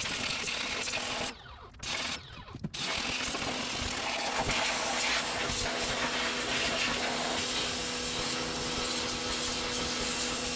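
Pressure washer spraying: a steady hiss of water over the pump's hum, cutting out briefly twice near the start.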